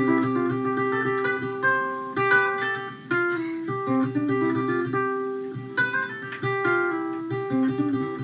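Solo ukulele playing an instrumental tune, with picked notes and strums ringing one after another without a break.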